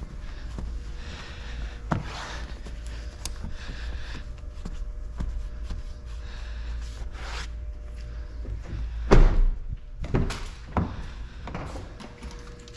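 Scattered handling clicks and knocks over a steady low hum, with a loud thump about nine seconds in and two smaller knocks just after it.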